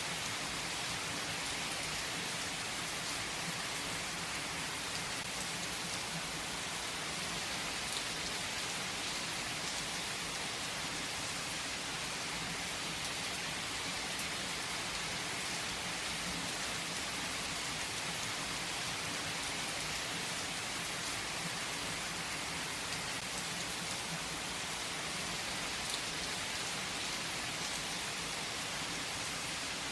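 Heavy rain falling on a tree's foliage: a steady, dense hiss of drops with a few louder single drops standing out.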